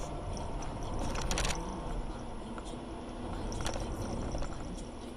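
Car on a wet road heard from inside the cabin: a steady low road rumble under a hiss, with a short scraping rattle about a second in and a shorter one a little later.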